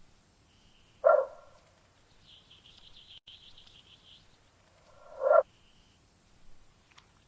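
A frog croaking twice, two short loud calls about four seconds apart, with a higher buzzing trill in between from another small animal in the background.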